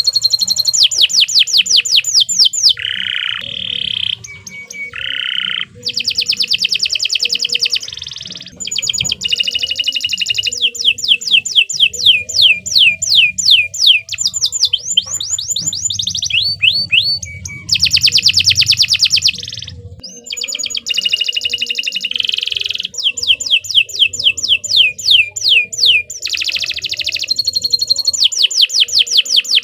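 Canary singing a long, unbroken song: fast trills and runs of rapidly repeated high notes, switching to a new phrase every second or two.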